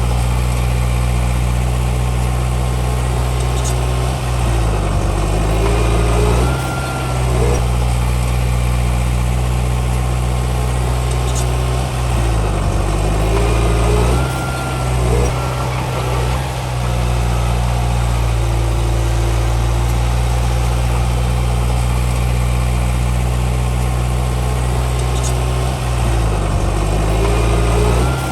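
Diesel engine of a Komatsu D31P bulldozer running loud and close, its note dipping and recovering three times as it takes and sheds load.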